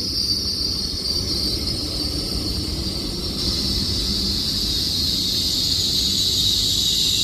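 Avanti West Coast Class 807 electric train squealing high and steadily as it brakes into the platform, the squeal slowly falling in pitch as the train slows, over a low rumble of the train.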